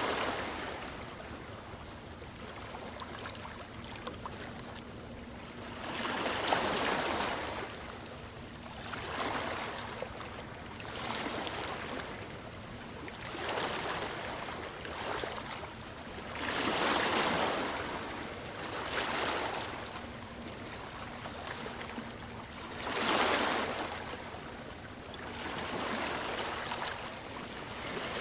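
Ocean waves washing ashore in repeated surges that swell and fade every two to three seconds, a few of them noticeably louder than the rest.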